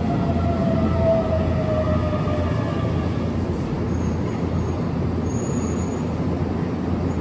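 Keihan 9000 series electric train pulling into a station. Its motor whine falls in pitch over the first few seconds as it slows, with a steady low rumble throughout. A faint high squeal comes about five seconds in as it comes to a halt.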